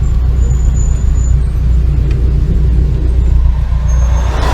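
Steady low rumble of a car being driven, engine and road noise, with a brief rush of noise near the end.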